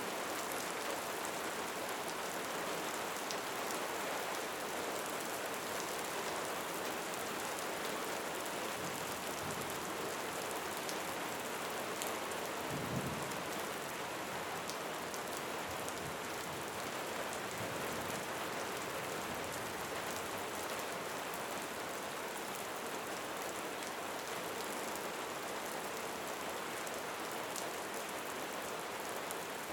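Steady rain falling on a surface, an even hiss with the odd sharp drop tick. A brief low rumble comes about halfway through.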